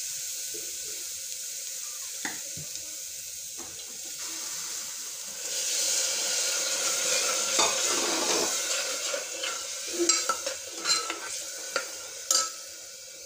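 Onion and spice masala sizzling in hot oil in an open pressure cooker. About five and a half seconds in, a little water is poured in and the sizzle grows louder. In the second half a steel ladle scrapes and clinks against the pot as the masala is stirred.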